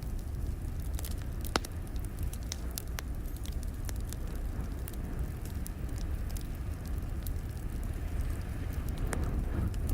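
Wood fire crackling in a fireplace: scattered sharp pops and snaps, one louder about one and a half seconds in, over a steady low rumble.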